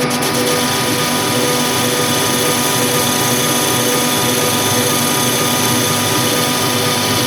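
A machine tool running steadily with a constant hum and hiss.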